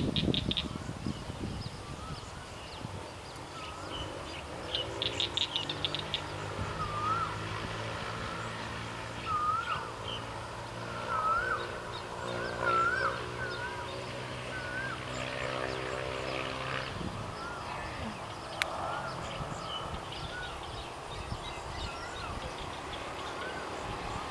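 Outdoor ambience: a bird repeats short rising-and-falling whistles over a steady engine hum, which stops about two-thirds of the way through. A brief fast trill comes about five seconds in.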